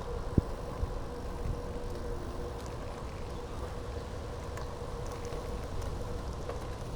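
Steady low rumble of a bicycle in motion, tyre and wind noise on the microphone, with a faint steady hum and a single knock about half a second in.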